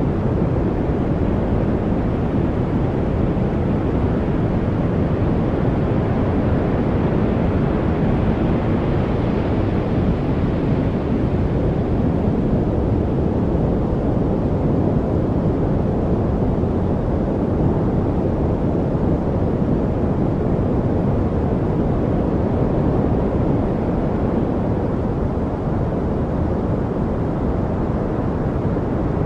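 Steady rushing noise of a white-noise study track, weighted toward the low end rather than hissy, with no birds, drips or other distinct sounds; its upper hiss brightens slightly about a third of the way through.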